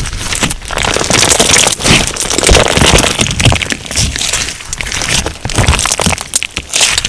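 Crunch slime being squeezed and kneaded by hand, giving a dense run of crackles and crunches in uneven swells.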